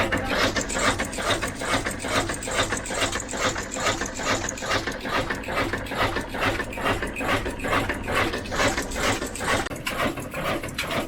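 Old slow-speed stationary diesel engine running at a steady speed, its valve gear and moving parts clattering in an even rhythm of about four to five clacks a second.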